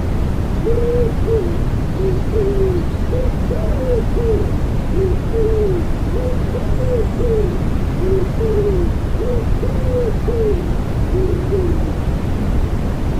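Common wood pigeon cooing: a run of low, soft coo phrases repeated over several seconds, laid over a loud steady hiss of white noise.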